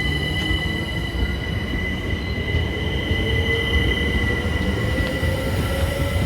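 Southern Class 377 Electrostar electric train moving under power, with a steady high-pitched whine, low rumble, and a motor tone that rises slowly in pitch as it gathers speed.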